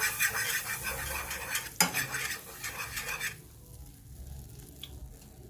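A utensil stirring and scraping in a pan of melting butter for about three seconds, with one sharp knock against the pan about two seconds in.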